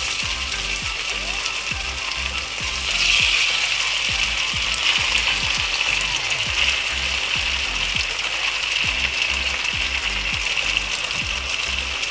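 Marinated pork slices sizzling in hot oil in a frying pan, getting louder about three seconds in as more pieces go into the oil. A low, rhythmic mechanical clicking runs underneath.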